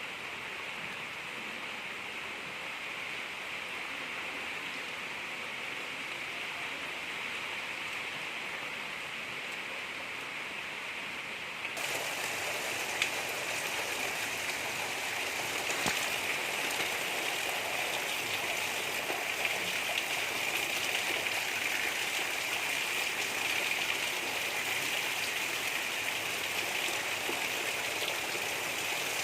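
Gentle rain falling steadily, a soft even patter. About twelve seconds in it turns abruptly louder and brighter, with a few distinct drops ticking out above it.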